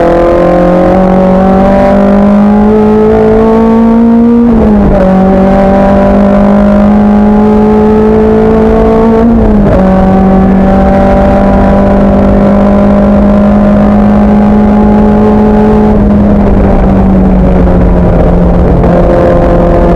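Race car engine at racing speed, the revs climbing for about four seconds and then dropping sharply. They climb gently again and drop sharply a second time about halfway through, then hold steady and ease down a little near the end.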